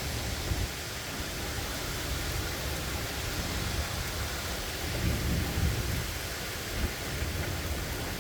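Steady rain hiss with a low rumble of thunder underneath, the rumble swelling about five seconds in.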